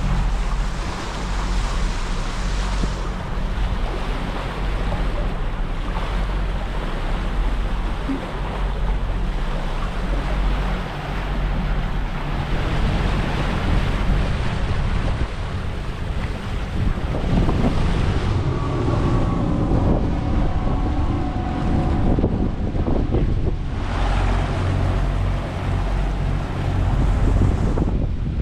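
Wind buffeting the microphone and water rushing along the hull of a sailing catamaran under way. A low steady hum sits under it for the first half.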